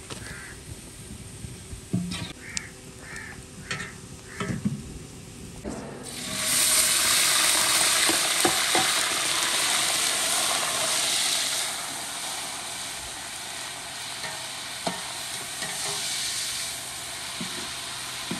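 Hot ghee in a large pot over a wood fire sizzles quietly under a few short knocks as fried onions are lifted out with a slotted spoon. About six seconds in, a sudden loud sizzle starts as garlic goes into the hot ghee with the remaining onions and is stirred with a ladle. The sizzle eases off somewhat after about twelve seconds.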